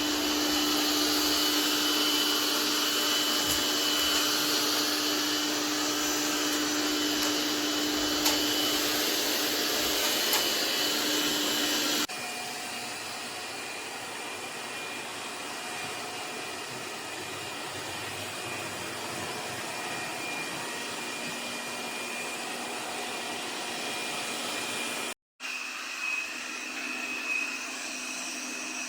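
Laresar robot vacuum running with a steady motor whine and hiss. About twelve seconds in it cuts abruptly to a quieter run at a different pitch, and near the end there is a brief break before the sound resumes.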